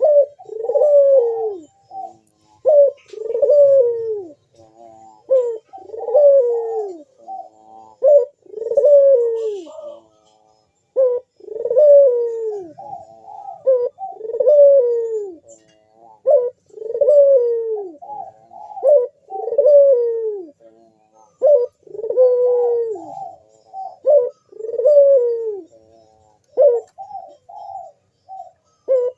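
Barbary dove (burung puter) cooing over and over: a long coo falling in pitch about every two and a half seconds, with short notes between them. This is the persistent cooing of a dove in breeding mood (birahi), used as a lure call for other doves.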